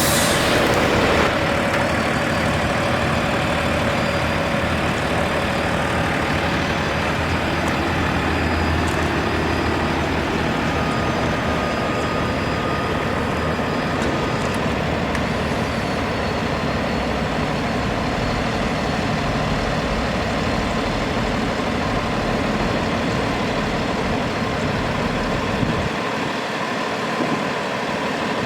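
The Cummins 6.7-litre diesel engine of a Freightliner M2 dump truck running steadily.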